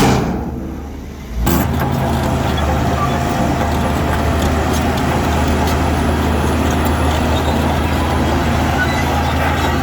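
Diesel engine of heavy construction machinery running steadily with a low drone. The sound fades during the first second and cuts back in suddenly about a second and a half in.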